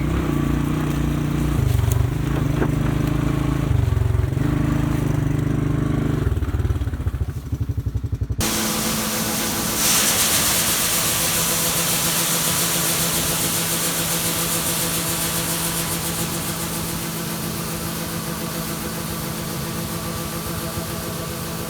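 Engine running with its speed rising and falling. About eight seconds in it cuts abruptly to a steady, hissing machine drone with a few constant tones.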